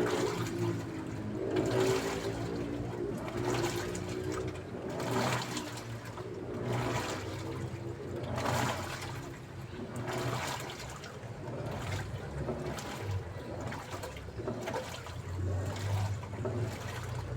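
Daewoo washing machine sloshing water in its drum, in surges that come back about every one and a half to two seconds over a low motor hum.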